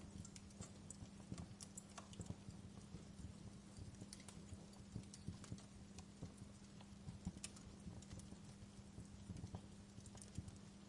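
Wood fire burning, crackling with irregular small snaps and pops over a steady low hum.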